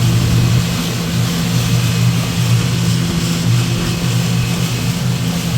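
Motorboat engine running at a steady speed while under way: a low hum that holds one pitch, under a constant rush of noise.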